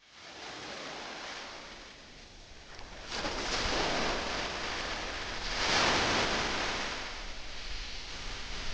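Ocean surf: waves breaking and washing ashore. The rush builds twice, a little after three seconds in and strongest around six seconds, then eases.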